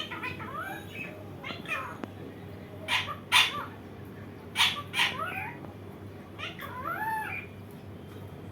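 Indian ringneck parakeet calling: loud, harsh screeches in two quick pairs, about three and five seconds in, between shorter gliding whistled notes.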